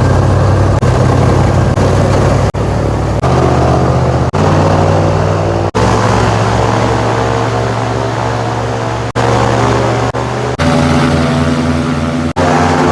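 Airboat's engine and large air propeller running loud and steady at speed. The sound breaks off abruptly several times and resumes at a slightly different pitch.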